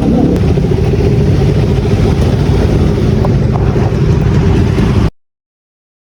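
Motorcycle engine running steadily under way, mixed with heavy rumble and wind noise, before the sound cuts off abruptly to dead silence about five seconds in.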